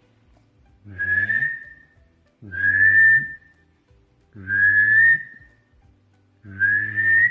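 A man imitating a varied thrush's song by whistling and humming at the same time: four long notes, each rising slightly, about two seconds apart.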